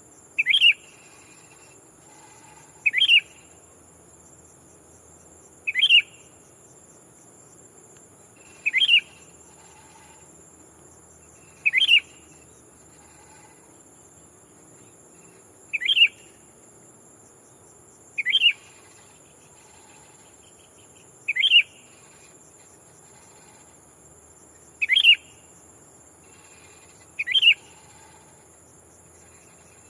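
Sooty-headed bulbul (kutilang) giving a short call about every three seconds, ten times: a decoy bird calling to lure wild bulbuls. Under it runs a steady, high insect drone.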